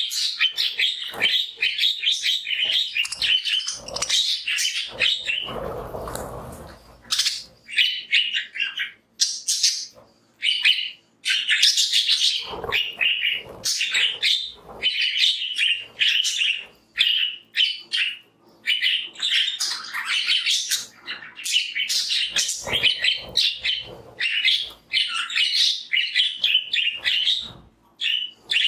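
A flock of budgerigars chirping and warbling continuously, many rapid overlapping chirps and chatters, with a brief low rustling noise about six seconds in.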